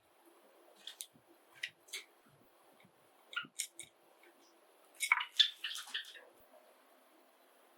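Pet Java sparrows giving short, sharp chirps, scattered at first, with a louder quick run of chirps about five seconds in.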